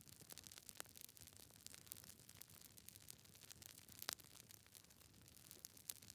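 Wood fire crackling in a fireplace: irregular soft snaps and pops from the burning logs over a faint hiss, with one louder pop about four seconds in.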